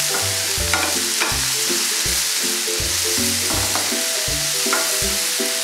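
Freshly added sliced button mushrooms and onion sizzling in hot oil in a nonstick frying pan, stirred with a wooden spatula: a steady frying hiss with a few short scrapes of the spatula. Soft background music plays under it.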